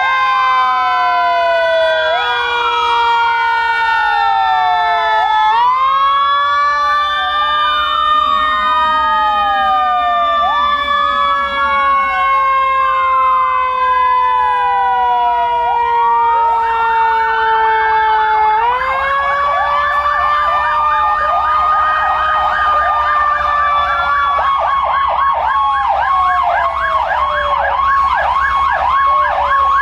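Several fire truck sirens sounding together. One siren holds a steady tone that slowly sinks in pitch and is pushed back up twice, under wails that rise and fall every couple of seconds. Near the end a fast yelp takes over.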